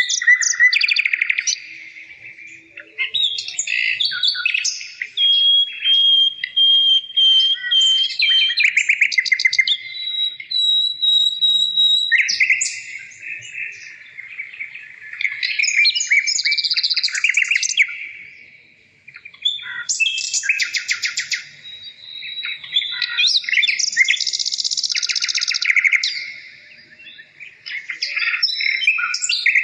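Birdsong running on with few breaks: fast trills and rapid repeated notes, broken by long held whistled notes, some of them high.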